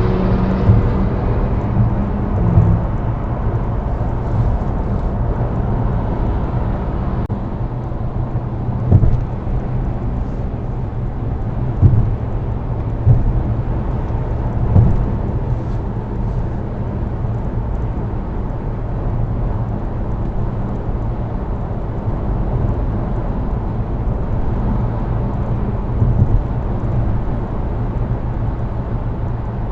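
Steady road and engine rumble of a car driving in traffic, with a few short thumps. In the first couple of seconds a passing vehicle's loud exhaust drone fades away.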